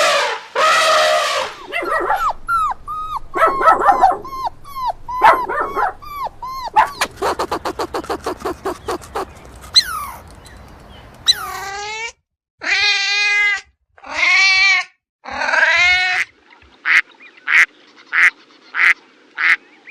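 A string of different animal calls. First come many short, high, gliding calls, then a fast rattling series. After that come several long calls, each about a second, and finally a row of short calls at even intervals, about one and a half a second.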